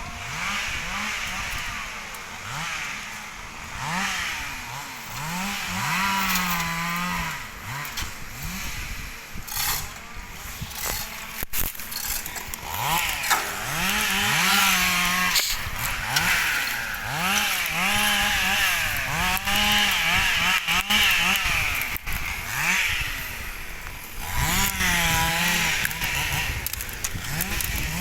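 Chainsaw cutting wood, its engine pitch rising and falling over and over as it revs and bogs down in the cut, holding steady for a moment a few times.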